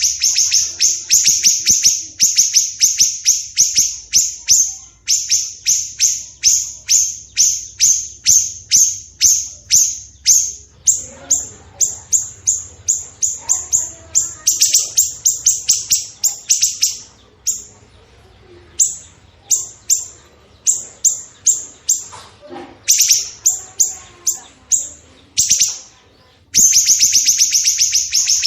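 Recorded songbird calls of cucak jenggot and siri-siri kecil played as a training track: rapid, sharp, high chirps at about three a second, in runs broken by short pauses. A fainter, lower chattering joins in the middle.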